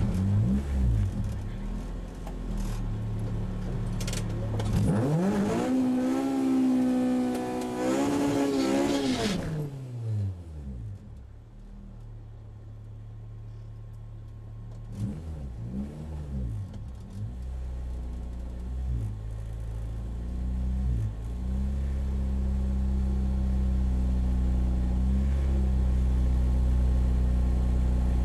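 A Honda K20A2 four-cylinder engine heard from inside the Civic's cabin, revved high and let fall back over about five seconds with a hiss, then blipped briefly a few times and left running at a steady low idle.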